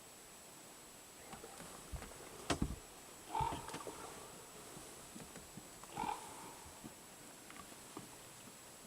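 Short animal calls, two of them about two and a half seconds apart, with a sharp knock just before the first.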